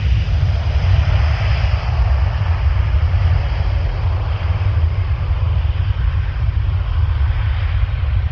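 Airbus A330's jet engines running at takeoff power during the takeoff run: a steady low rumble with a broad hiss that slowly fades.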